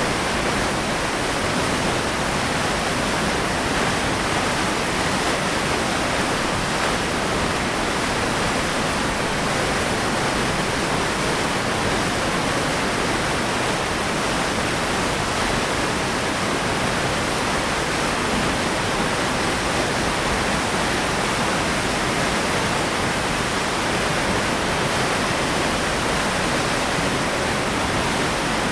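Waterfall, a heavy flow of water falling onto rock with a steady, even rush.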